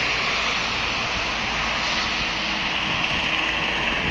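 Steady roar of road traffic: vehicle engine and tyre noise.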